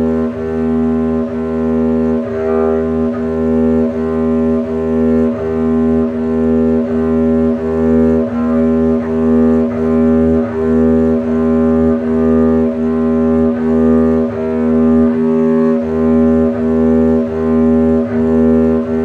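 Double bass bowed on a single open string: even, repeated bow strokes on one low note, about one and a half strokes a second. This is a cold-start warm-up exercise to loosen up the bowing arm.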